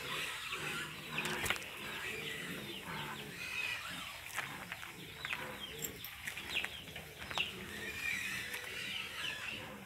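Birds calling: many short, high chirps and whistles, over lower, steadier calls.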